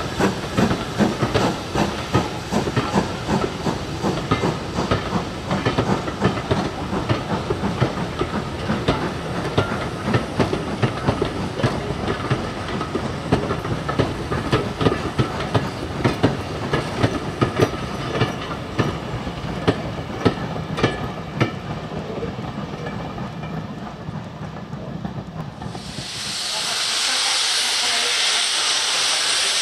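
Steam-hauled railway coaches rolling past, their wheels clicking irregularly over rail joints, fading as the train draws away. Near the end the sound cuts to a loud, steady hiss of steam escaping from a steam locomotive.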